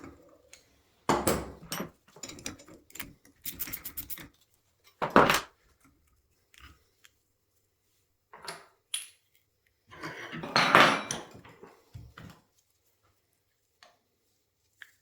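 Metal brake caliper parts knocking and clattering as they are handled and set down, in irregular bursts with the loudest clatters about five and eleven seconds in.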